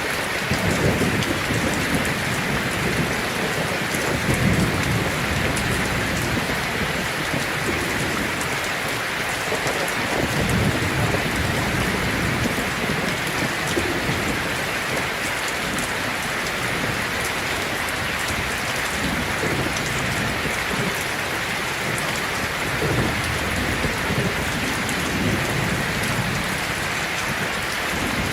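Heavy rain falling steadily on a tin roof, with low rumbles of thunder swelling and fading several times.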